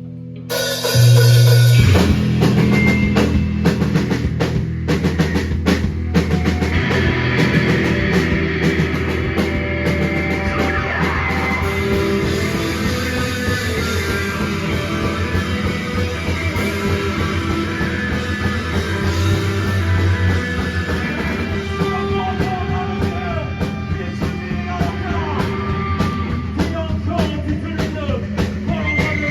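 Rock band playing live: drums and guitars crash in together about a second in, then carry on loud and dense with a steady drum beat.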